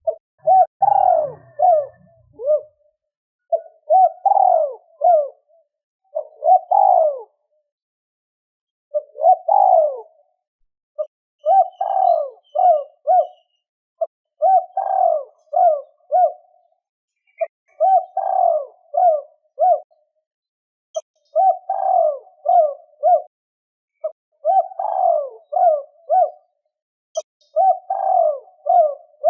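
Spotted dove cooing: repeated phrases of short, low coos, a phrase every two to three seconds. A brief low rumble sounds in the first two seconds.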